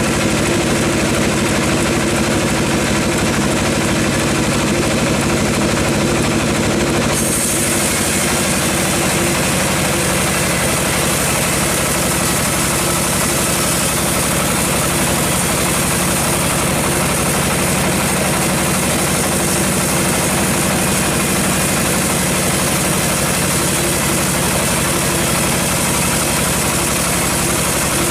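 Engine-driven sawmill machinery running with a steady drone. About seven seconds in, the sound changes abruptly and takes on a stronger high hiss.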